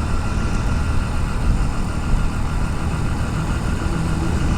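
Motorcycle engine running steadily under way, heard together with the constant rush of wind and road noise on a helmet-mounted action camera.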